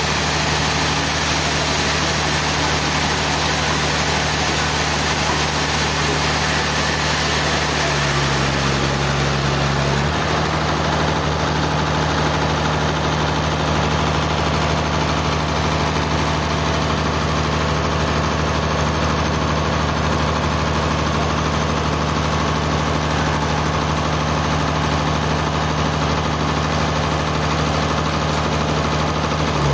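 Sawmill machinery running steadily: a constant engine hum under a wash of mechanical noise. The low hum briefly shifts in pitch about eight seconds in, then settles back.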